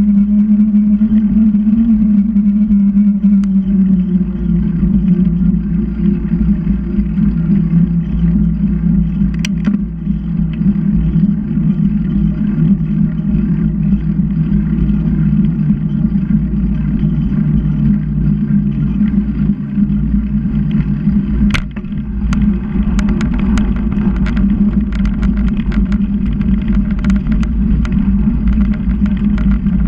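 A steady motor hum over a low rumble of wind and road noise, its pitch dropping slightly about four seconds in. Scattered clicks and rattles come in over the last third.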